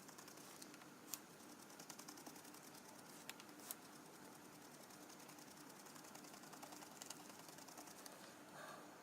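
Near silence with faint soft dabbing and a few light clicks, from a sponge pouncing acrylic paint onto a card.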